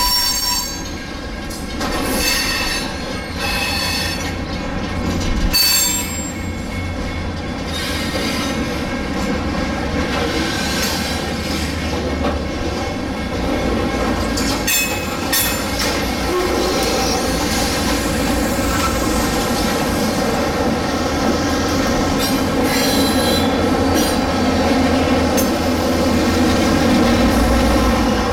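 Slow-moving freight train of hopper cars passing over a grade crossing: steel wheels squealing against the rails with a steady, many-toned whine, broken by occasional sharp clanks. Near the end it grows louder as the Wisconsin & Southern diesel locomotive comes alongside.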